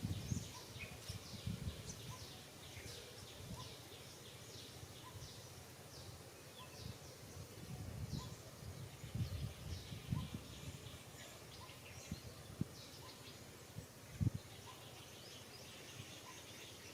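Outdoor ambience of small birds chirping steadily in short, high, falling notes, over scattered low muffled thumps and rumbles, the sharpest about fourteen seconds in.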